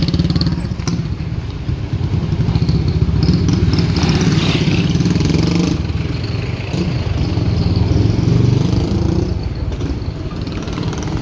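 Motorcycle engine running close by, steady with small rises and falls in speed.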